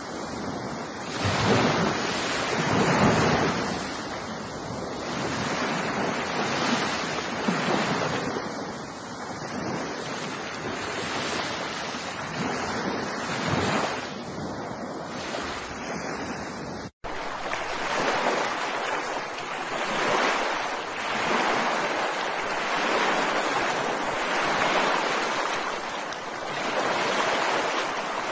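Ocean surf washing on a beach, swelling and easing every couple of seconds. About two-thirds of the way through the sound drops out for an instant, then carries on with less low rumble.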